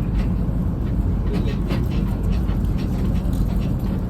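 Tour trolley running with a steady low rumble, with a run of short high-pitched sounds from about one second in until near the end.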